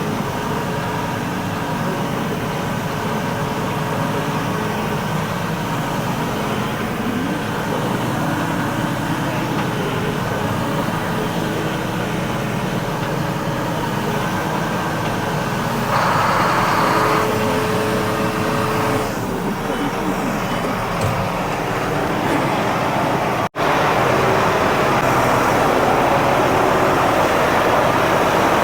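Engine-driven machinery running steadily with a low hum. About 23 seconds in the sound cuts off for an instant and comes back as a louder, hissier running noise.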